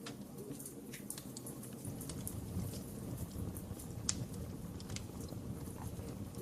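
Fire in a fireplace crackling, with irregular sharp pops over a steady low rumble of flame; one pop about four seconds in is the loudest.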